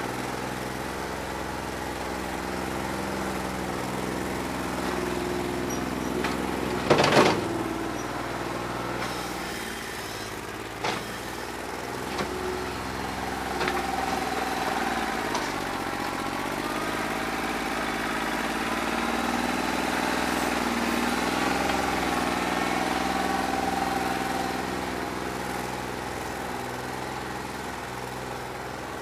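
New Holland 1320 tractor's diesel engine running with a bad injector. A loud clank comes about seven seconds in and a few lighter knocks follow; the engine gets somewhat louder past the middle, then eases off.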